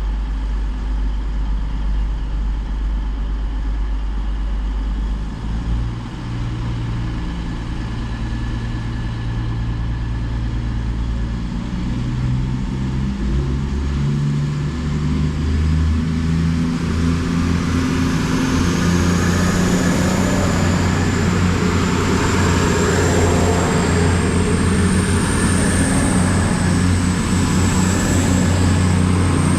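Coupled Class 221 Super Voyager and Class 220 Voyager diesel multiple units pulling away, their underfloor diesel engines running under power. The sound grows louder about 14 seconds in, and from about 17 seconds a high whine rises in pitch as the train gathers speed.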